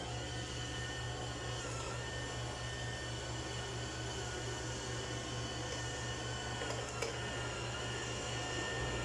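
Budget robot vacuum running across the floor: a steady motor whine and hum of its suction fan and brushes, dipping slightly in pitch now and then, with one brief click about two-thirds of the way through.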